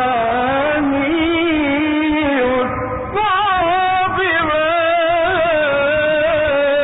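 A man chanting the Quran in the slow, melodic mujawwad style, holding long ornamented notes that waver in pitch. There is a short pause for breath about three seconds in.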